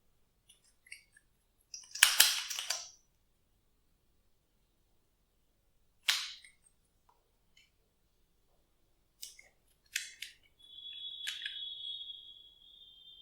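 Glossy slime being pressed and stretched by hand, giving scattered sticky clicks and pops. There is a crackling burst about two seconds in and a sharp snap about six seconds in. A thin, steady high squeak starts near the end.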